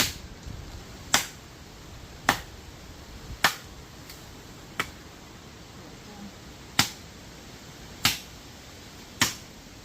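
Steady chopping into a tree with a blade: about eight sharp strikes roughly a second apart, with one longer pause about halfway through.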